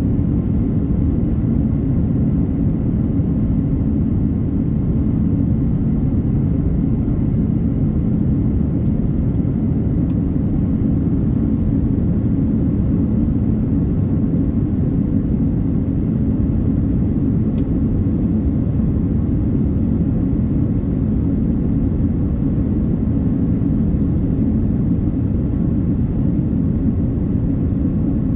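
Steady cabin rumble of an Airbus A330-900neo in flight, heard from a window seat: the drone of its Rolls-Royce Trent 7000 engines and the rush of air over the fuselage, deep and even with a faint hum of steady tones above it.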